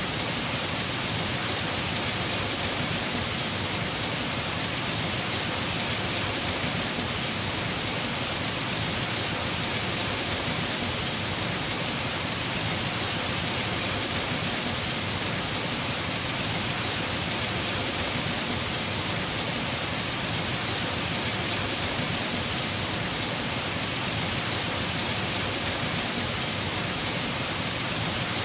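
Heavy rain falling steadily on a house roof, a dense even patter with no pauses or thunder.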